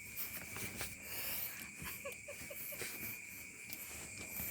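Cats in a standoff during a fight, giving faint low growls and a breathy hiss, with insects trilling steadily in the background.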